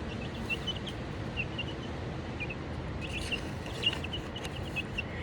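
Baby chicks peeping: short, high cheeps in scattered quick runs, busiest at the start and again about three seconds in.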